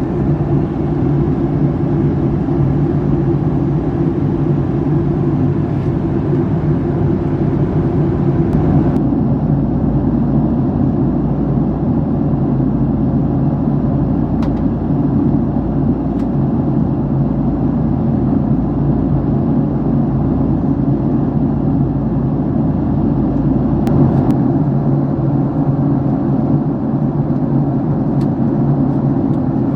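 Steady engine and airflow drone inside the cabin of a Boeing 757-300 jet airliner, with a low rumble under it. About nine seconds in, the high hiss drops away and the rumble grows stronger.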